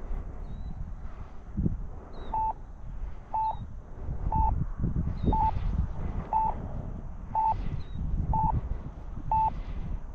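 RC transmitter timer beeping once a second, a short mid-pitched beep counting down the last seconds of the flight timer, over a gusty low rumble of wind on the microphone.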